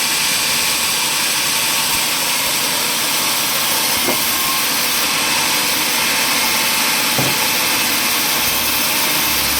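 Steady machine noise with a strong hiss, running evenly at a constant level.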